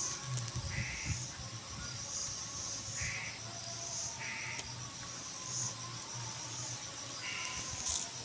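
Short animal calls repeating about once a second over a steady high-pitched chirring, with one sharp click near the end.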